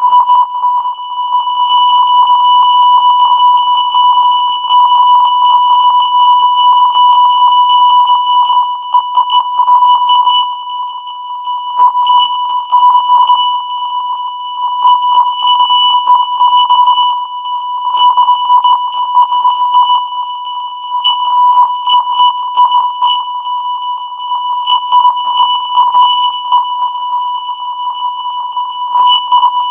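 Continuous 1 kHz color-bars test tone, harsh with strong overtones. Its loudness wavers irregularly.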